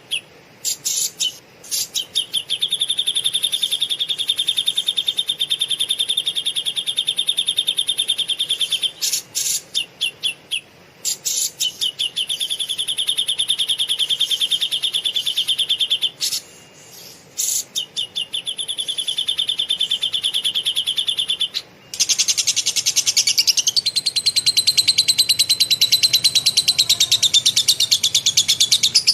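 Cucak jenggot (grey-cheeked bulbul) singing rapid, rough lovebird-style material: long, very fast buzzy trills lasting several seconds each, broken by short stuttering bursts of clicks. About two-thirds of the way through, a denser, harsher trill takes over.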